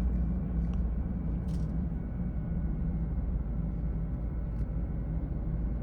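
Car driving down a mountain road: steady low engine and tyre rumble, with a few faint ticks.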